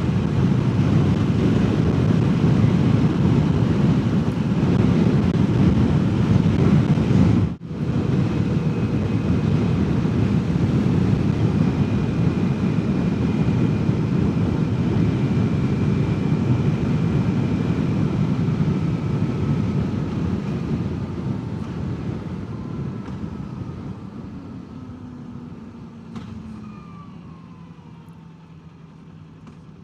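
Heavy wind rushing over a helmet-mounted mic as a Kawasaki Ninja 400 parallel twin on its quiet stock muffler is ridden at speed, with a brief dropout about seven seconds in. Over the last third the wind dies away as the bike slows, and a faint engine whine falls in pitch.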